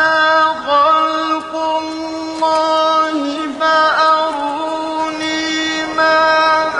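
Quranic recitation: a single voice chanting, holding long notes at a steady pitch with a few brief ornamental turns.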